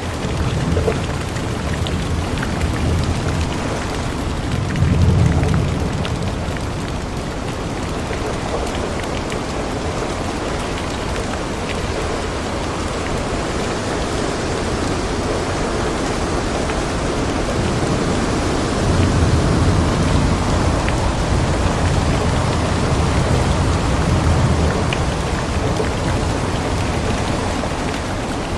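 Steady rain on a window pane, with fine drop ticks over an even hiss. Low rumbles of thunder swell a few times, about five seconds in and again through the second half.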